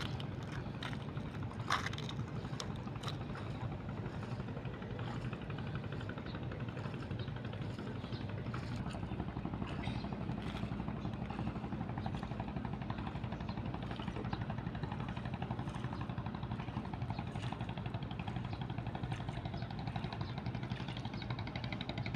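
An engine running steadily at idle, a low even hum. A few short knocks come about two seconds in.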